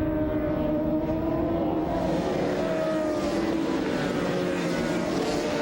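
A racing motorcycle engine running at steady high revs, its pitch drifting slightly up and easing back.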